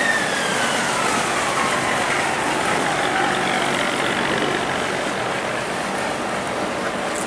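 Tugboat's diesel engine running steadily, with a high whine that slides down in pitch over the first few seconds.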